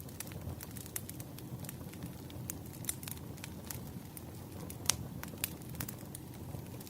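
Firewood burning: a steady low rumble of flames with irregular sharp crackles and pops, one louder pop about five seconds in.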